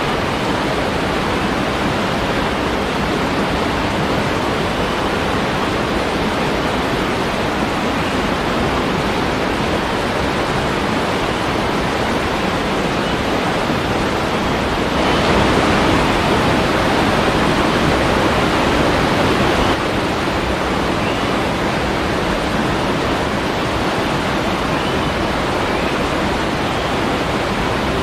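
Waterfall rushing steadily, a dense even roar of falling water that grows a little louder for a few seconds midway.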